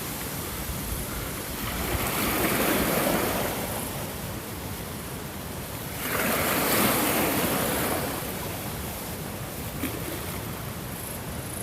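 Ocean waves breaking and washing on a shore, two louder surges rising and fading about four seconds apart over a steady rush of surf.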